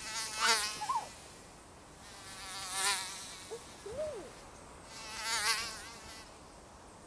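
Mosquito whining: a high, wavering buzz that swells loud and fades away three times, roughly every two and a half seconds.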